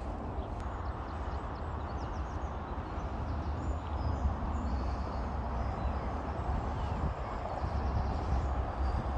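Steady roar of motorway traffic, with a few faint bird chirps above it.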